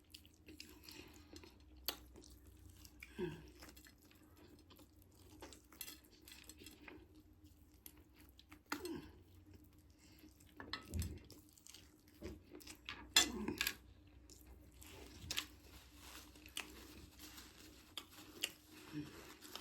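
Quiet chewing and mouth sounds of someone eating rice and fried meat, with scattered clicks of cutlery against a plate, the loudest about 11 and 13 seconds in.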